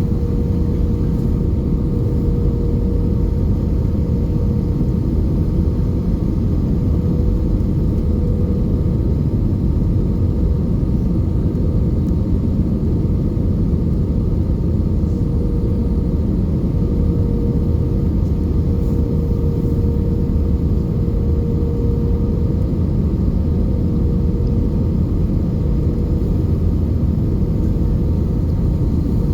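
Airbus A320 engine and airflow noise heard inside the passenger cabin: a steady, unchanging low drone with a constant hum running through it.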